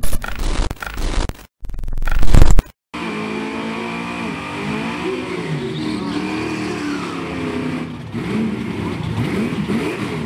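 Big drag-racing V8 engines revving, their pitch rising and falling again and again, after a loud, choppy opening of about three seconds that cuts out abruptly.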